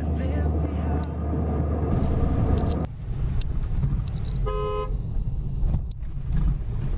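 Road traffic with a steady engine and road rumble, broken by a sudden change about three seconds in, and a single short vehicle horn toot a little past the middle.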